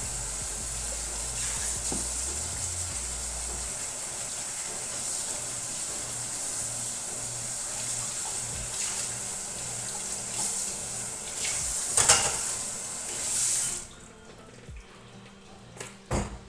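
Water running steadily from a kitchen tap, shut off about fourteen seconds in. A sharp knock comes just before, and a few small clicks follow.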